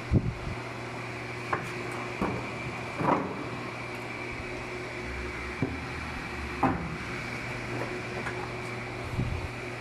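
Scattered knocks and clunks, about seven, irregularly spaced, over a steady hum: parts and tools being handled on a washing machine under repair.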